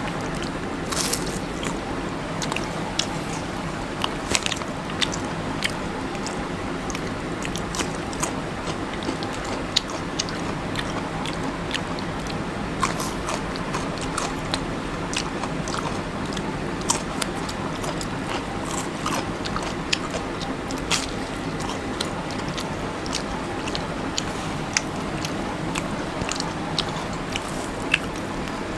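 Close-up sounds of a person biting and chewing an egg burger: irregular crisp clicks and soft crunches of the mouth and bun, over a steady background hiss.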